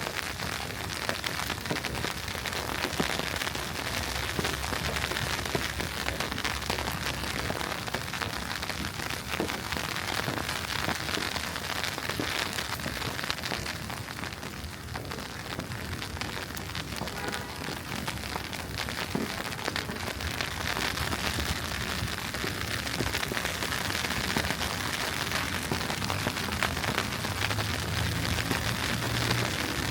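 Steady hiss and patter of wet snow falling on a city street, with a low engine hum coming in near the end.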